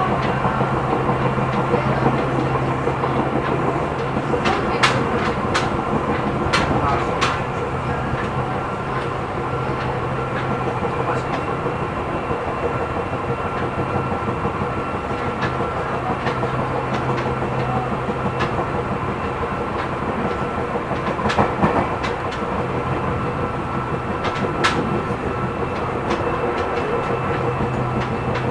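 Seibu New 2000 series electric train running at steady speed, heard from inside the passenger car: a continuous rumble with a steady hum, and sharp clicks from the wheels at a few points.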